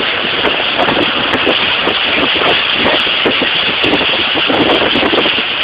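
A vehicle running, heard from inside it, under a loud steady rush of wind and road noise that swells irregularly in gusts.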